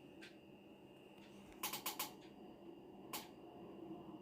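Low room tone with a few faint, sharp clicks: a single click, then a quick run of three or four, then another single click.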